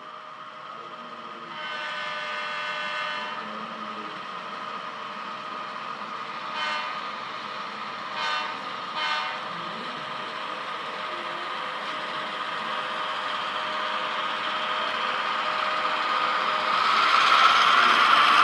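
HO-scale model diesel locomotive's sound decoder playing a horn: one long blast about a second and a half in, then three short toots. Under it a steady diesel engine sound runs on and grows louder near the end.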